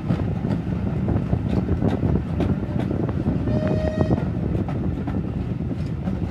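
Heritage railway carriage running along the line, seen from an open window: steady rumble of wheels on rails with scattered clicks, and a brief high tone a little past halfway.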